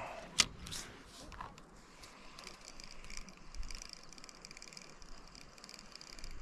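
Fishing reel being cranked, a faint, fast, steady ticking, after a sharp click about half a second in.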